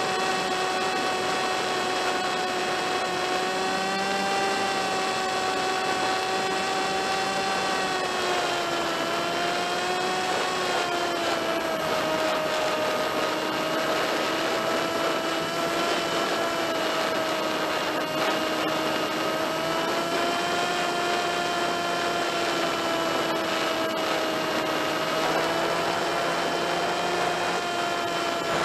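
Electric motor and propeller of a HobbyKing Drifter RC plane whining steadily in flight. The pitch drops a little about ten seconds in, then wavers slightly with the throttle.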